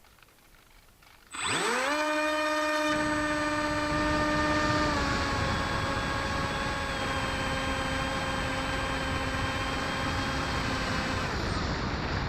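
Electric motor and propeller of a Bixler 1.1 model glider spinning up with a quickly rising whine about a second and a half in, then running at a steady pitch. It drops slightly in pitch about five seconds in and dies away near the end. Wind rushes over the microphone from about three seconds on.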